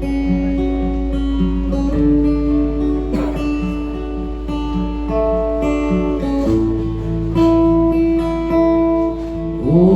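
Guitar strummed in an instrumental break of a live song, the chord changing a couple of times over a steady low hum. A singing voice comes in near the end.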